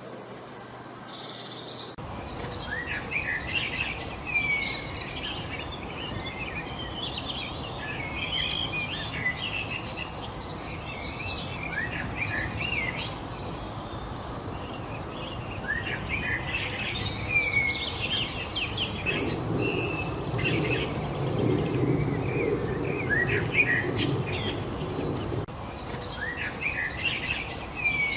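Several wild birds chirping and singing in quick, overlapping short calls and sweeping notes over a steady outdoor hiss, starting about two seconds in. A low rumble swells up for several seconds past the middle and then fades.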